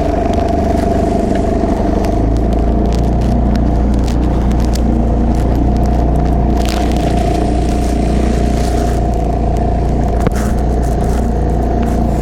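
Two-stroke 25-horsepower outboard motor running steadily under way on a small three-point hydroplane, a steady high whine over a deep rumble that grows a little about two seconds in, with water and wind noise. It runs smoothly with no chugging, which the owner takes as a sign of good fuel delivery.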